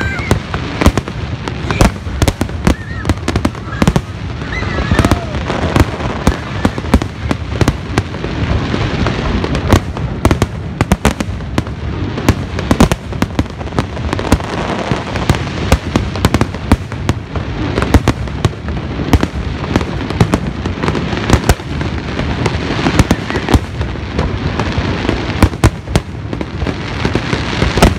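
Fireworks display: a dense, continuous barrage of aerial shells bursting overhead, many sharp bangs following each other in quick succession.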